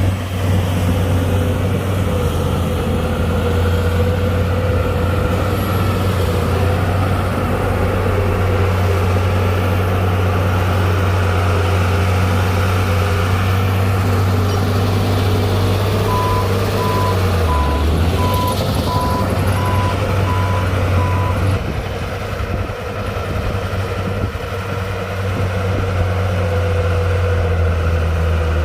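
Heavy diesel earthmoving machinery, a Komatsu D60-P bulldozer working alongside a dump truck, running steadily under load, the engine note dipping briefly about midway. A reversing alarm beeps repeatedly for about five seconds in the middle.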